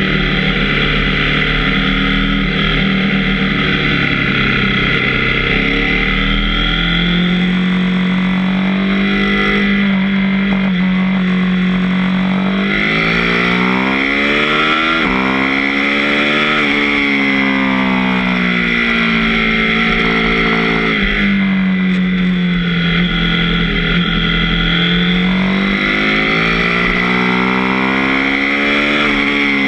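KTM 790 Duke's parallel-twin engine running under way, its pitch rising and falling smoothly several times as the revs climb and drop.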